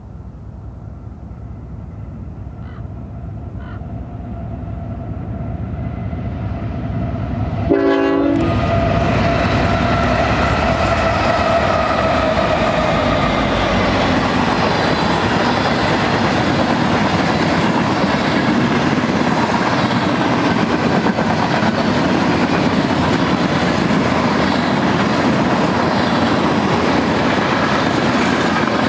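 BNSF freight train with diesel locomotives growing louder as it approaches. There is a brief loud blast as the locomotives pass about eight seconds in, and an engine tone then falls away. After that comes the steady rumble and clickety-clack of boxcars rolling by.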